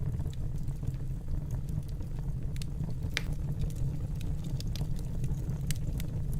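Wood fire burning in a fireplace: a steady low rumble of the flames with scattered crackles and pops, one louder pop about three seconds in.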